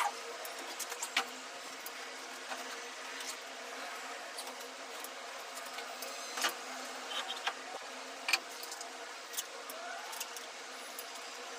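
A steady low electrical hum with scattered light clicks and knocks of metal parts being handled, the strongest near the start and about six and eight seconds in.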